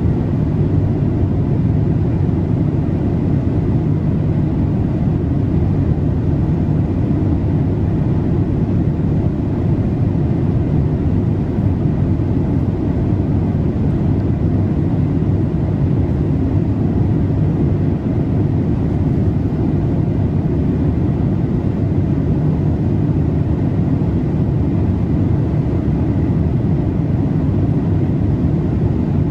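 Boeing 787-8 cabin noise in flight: a steady, deep rushing of airflow and engine noise heard from a window seat, unchanging throughout.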